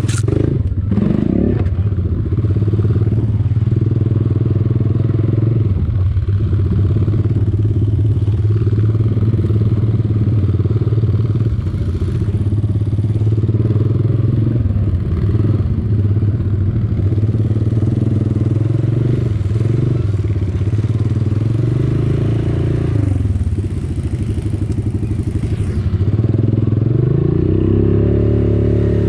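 Quad bike (ATV) engine running continuously, its pitch rising and falling with the throttle, with a clear rise in revs near the end.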